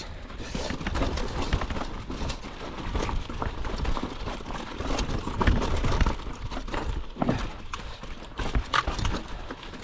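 Mountain bike riding over rough, rocky singletrack: tyres crunching on dirt and the bike's frame and parts clattering with many quick knocks, over a low rumble of wind on the microphone.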